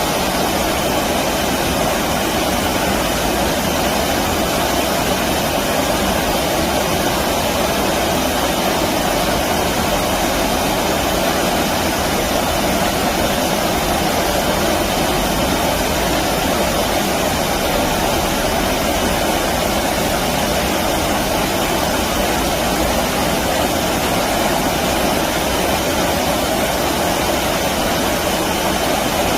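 Flowing stream water rushing steadily, an unbroken even rush of water noise.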